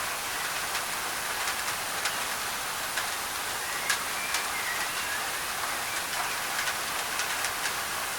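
Steady rain on a thin tin roof, an even hiss with many sharp drop taps, blended with a layer of white noise. A bird chirps faintly a few times in the middle.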